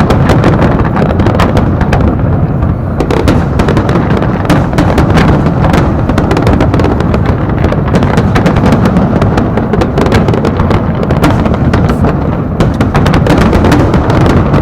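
Fireworks display in full barrage: a continuous deep rumble of shell bursts with rapid sharp crackles over it.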